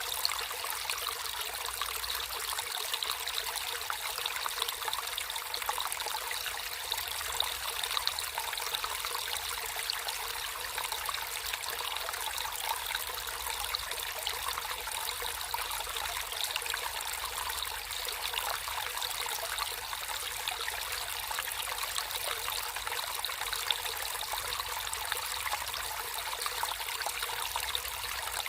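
Water trickling and running steadily in a small natural stream, a continuous bright babbling with fine splashing detail.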